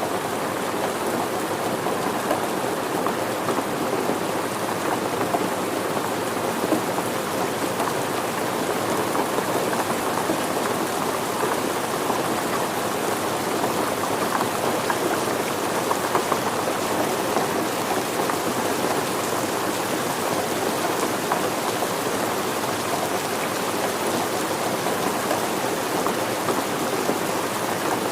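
Steady rain falling and pattering on surfaces, a dense even hiss with many fine drop ticks.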